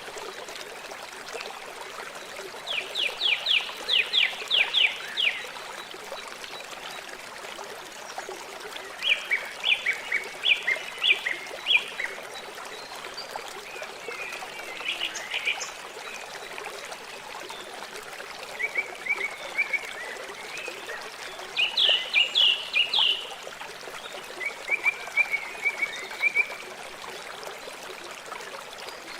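River flowing steadily, with a songbird singing about six short phrases of quick repeated notes, a few seconds apart.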